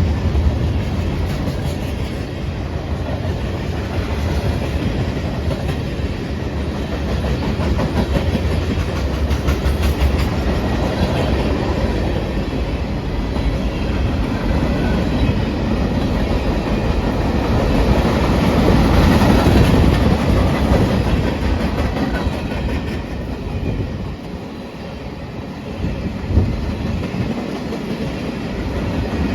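Union Pacific manifest freight train rolling past, its wheels clicking over the rail joints with a steady rumble. The sound swells about two-thirds of the way through, then eases, with a single sharp knock near the end.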